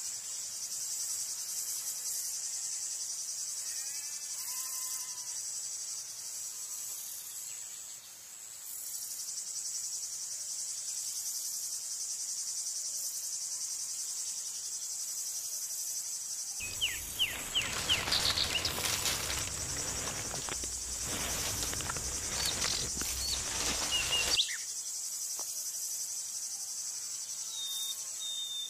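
Steady high-pitched chirring of insects, with an occasional bird chirp. About two-thirds of the way through, a louder rushing noise with sharp chirps sets in for several seconds and then stops suddenly. Near the end come a few short high chirps.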